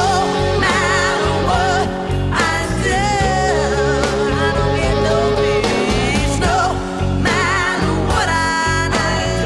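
Blues band music between sung lines: a lead line with wavering, bending notes over the band's steady accompaniment.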